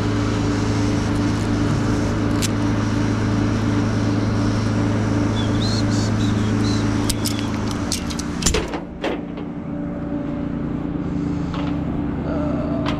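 Vehicle engine running steadily with road noise. About eight and a half seconds in there is a loud clunk, and the engine drone drops lower and quieter afterwards.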